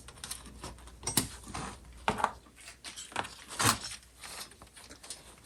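Irregular small clicks, taps and light metallic clinks from the metal parts of a jukebox write-in read-out mechanism being handled and worked apart, with a few sharper knocks scattered through.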